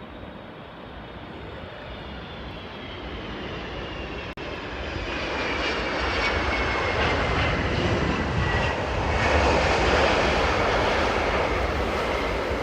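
Jet airliner passing close by, its engine noise building to a peak about ten seconds in, with a high engine whine that falls steadily in pitch as it goes past.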